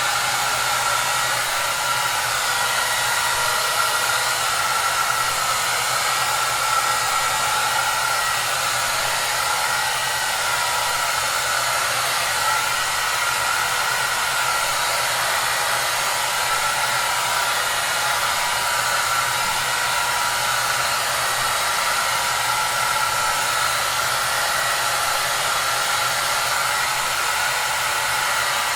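Hair dryer running steadily: an even rush of blown air with a faint steady whine and a low hum underneath.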